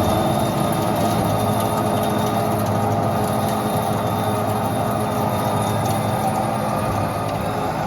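Behringer HBP530A horizontal band saw running under power: a steady, loud machine noise over a low hum, holding even throughout.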